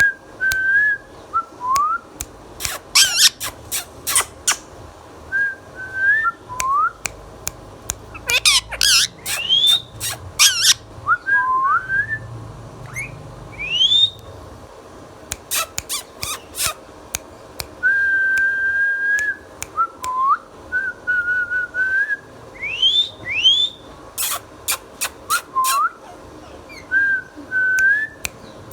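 Ringneck parrot whistling a string of short rising notes and one longer held note, broken up every few seconds by quick runs of sharp, piercing clicks.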